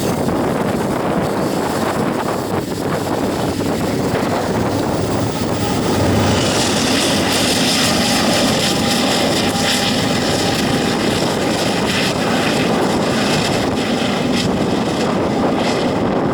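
Union Pacific coal train rolling past: a steady rumble and clatter of steel wheels on rail. The high-pitched hiss grows louder from about six seconds in.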